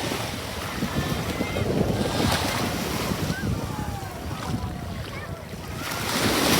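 Sea waves washing in and drawing back on a shore, with wind on the microphone; one wave surges about two seconds in and another builds near the end.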